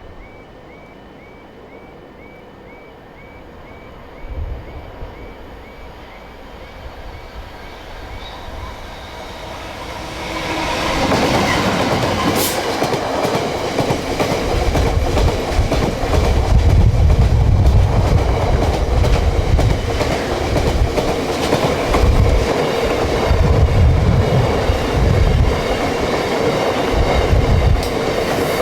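A level-crossing warning alarm warbles faintly, about two calls a second. Then a train approaches and passes close by, loud from about ten seconds in, its wheels clattering with uneven low thuds.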